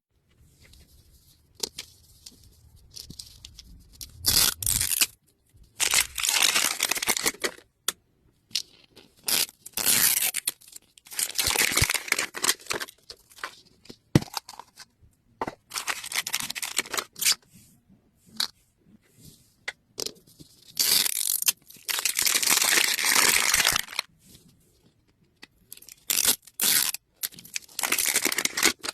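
Plastic wrapping being torn and crinkled in bursts, with small clicks and rustles between, as Mini Brands capsules and their sealed bags are opened.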